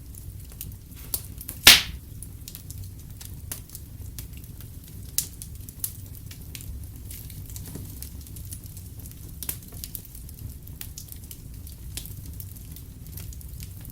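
Wood fire crackling in a fireplace: a steady low rumble with scattered sharp pops and snaps, one much louder pop a little under two seconds in.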